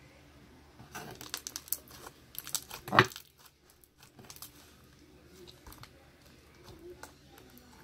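Slime being stretched and squeezed by hand to blow a bubble: about two seconds of small wet crackling clicks that end in one louder pop about three seconds in, then a few scattered soft clicks.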